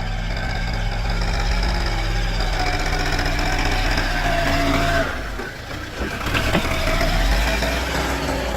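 Diesel tractor engine running steadily, with a brief dip in level a little past the middle before it runs on.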